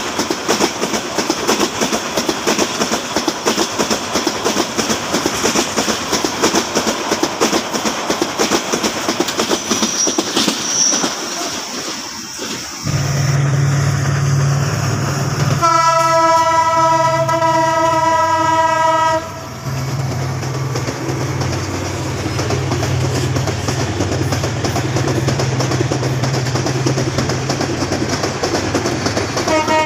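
Meter-gauge passenger coaches passing close by, their wheels clattering rapidly over the rail joints. About halfway through this gives way to the steady low drone of a diesel locomotive, which sounds one long horn blast of about three and a half seconds.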